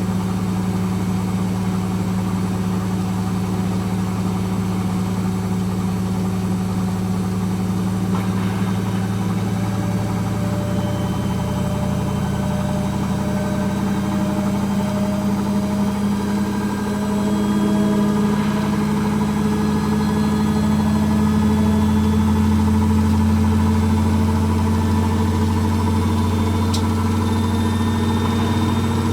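Hoover H-Wash 300 Plus washing machine spinning, its motor giving a steady hum that rises slightly in pitch and gets a little louder about two-thirds of the way through.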